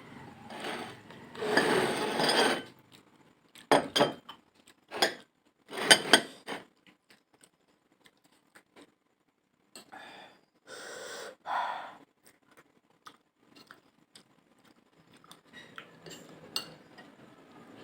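Cutlery clinking and scraping against dishes while eating, in several separate bursts with quiet gaps: a louder scraping stretch near the start, a run of sharp clinks, then a few more scrapes.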